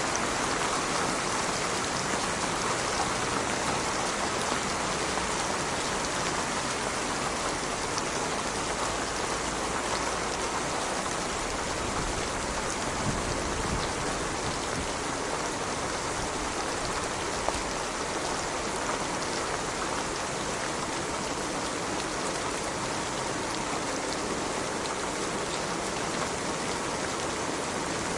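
Steady rain falling, an even dense hiss of many drops hitting a surface.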